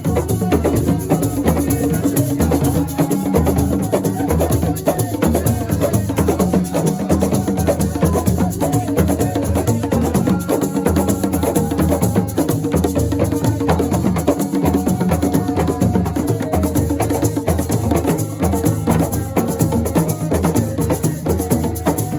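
Live Senegalese assiko music: dense drum and shaker percussion playing a steady fast beat, with a few held melody notes over it.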